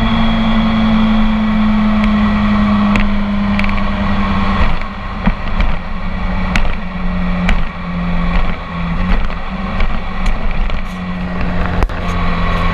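BMW K1300 S inline-four through an Akrapovic full exhaust, heard onboard: the engine holds a steady, slightly falling note for about four seconds, then drops off and wavers unevenly with scattered sharp pops for the rest of the time.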